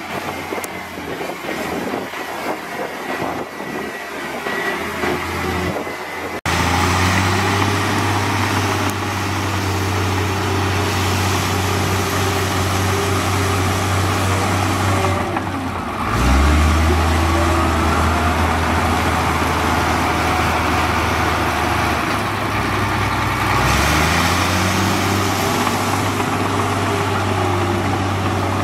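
Diesel engines of heavy earthmoving machines running. The sound changes abruptly about six seconds in, then settles into a steady low engine drone whose pitch dips and climbs back twice, once midway and again a few seconds later.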